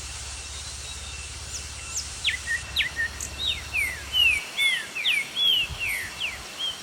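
Birds chirping: many short, quick sweeping calls, some falling and some arched, overlapping one another from about a second and a half in, over a steady outdoor hiss.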